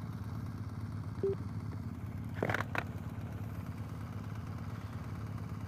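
Motorcycle engine running steadily with a low, even pulse, heard from the rider's helmet. A short beep sounds about a second in, and a brief crackle about two and a half seconds in.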